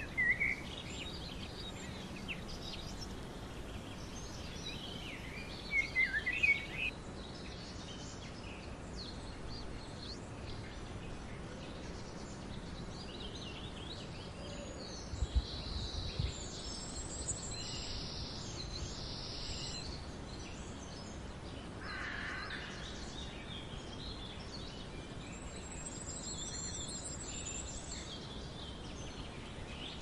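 Birds calling over a steady background hiss of outdoor ambience: scattered short calls and chirps, a louder cluster near the start and again about six seconds in, and a high thin trill late on. Two low bumps about fifteen seconds in.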